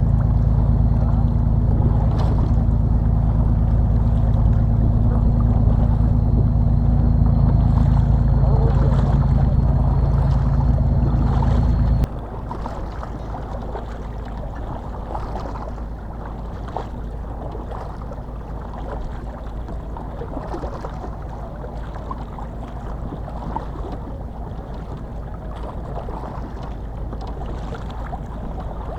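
A boat's engine running steadily over water and wind noise, cutting off abruptly about twelve seconds in; after that only the water and wind remain.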